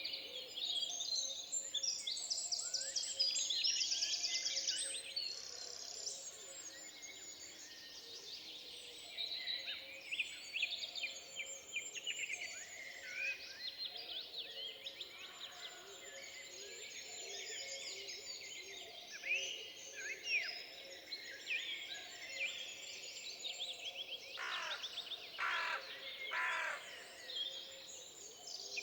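Several wild songbirds singing at once in woodland, a dense chorus of overlapping chirps and trills, with a few stronger, lower calls near the end.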